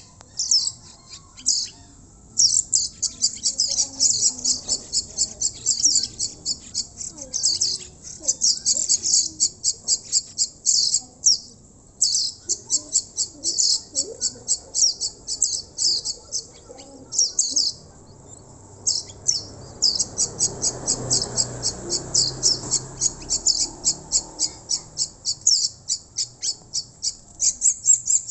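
Baby birds making begging calls as they are hand-fed: rapid, high-pitched chirps, several a second, in runs broken by short pauses. A soft rustling noise runs for a few seconds in the second half.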